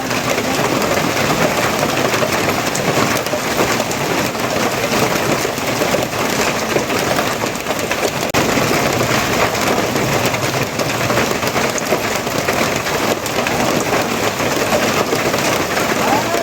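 Steady, heavy rainfall: a dense, even hiss of drops that holds constant throughout.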